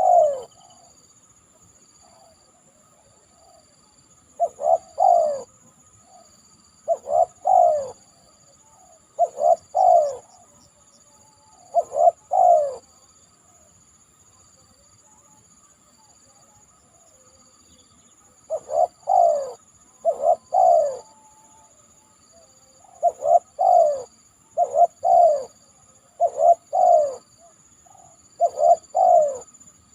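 Spotted dove (tekukur) cooing: repeated short phrases of two or three low coos every two to three seconds, with a pause of about five seconds around the middle.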